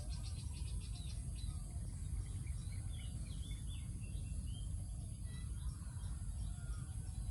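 Outdoor ambience with birds chirping: a rapid trill in the first second, then a few short chirps around the middle, over a steady low rumble and a constant high hiss.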